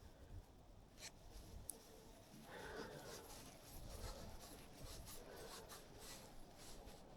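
Near silence, with faint scattered rustling and a few soft clicks.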